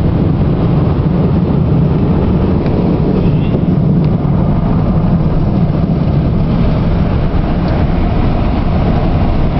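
Automatic car wash air-dryer blowers running steadily, a loud, even noise heard from inside the truck's cab.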